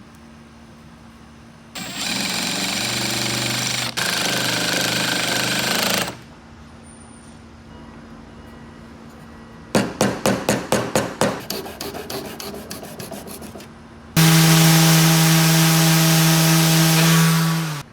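A power tool runs twice in bursts of a few seconds, each with a steady motor hum, and between them comes a quick series of sharp knocks that die away.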